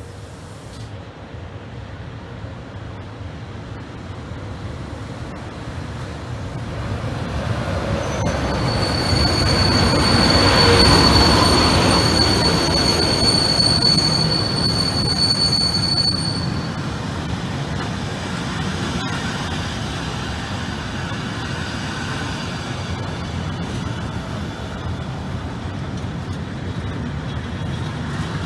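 A train running past on the track, growing louder over the first ten seconds or so. A high, steady wheel squeal sounds from about eight to sixteen seconds in, and the wheels keep up a steady running noise after it stops.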